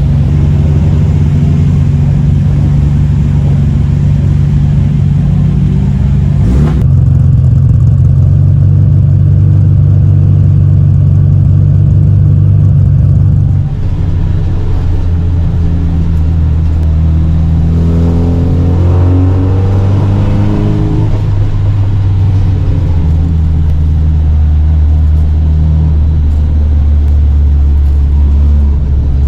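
Volvo Amazon 121 race car's four-cylinder engine running, heard from inside the car, mostly at a steady note. There is a sharp click about 7 s in, the engine note drops near 14 s, and it revs up with a rising pitch a few seconds later.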